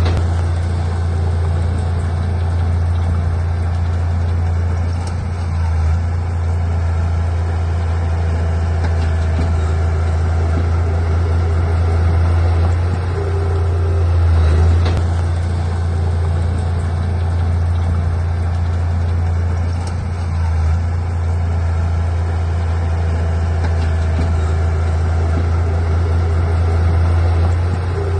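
Heavy diesel engine of earthmoving equipment running steadily with a deep low drone, swelling slightly now and then.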